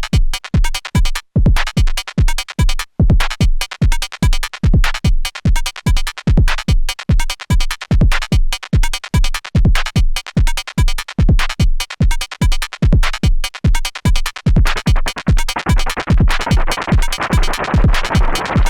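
Electronic drum pattern played on an Erica Synths Perkons HD-01 drum synthesizer: a steady beat of kick drums, each falling in pitch, with other percussive hits between them. From about fifteen seconds in, a hissing noise swells up over the beat.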